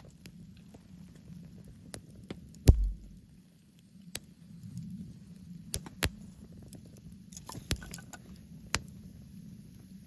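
Wood campfire crackling, with irregular sharp pops and snaps over a low steady rumble; the loudest pop, about three seconds in, has a dull thud to it.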